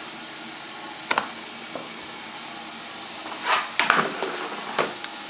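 Scattered knocks and clicks: a sharp one about a second in, a cluster of knocks and rustles about three and a half to four seconds in, and another near the end, over a steady ventilation hum.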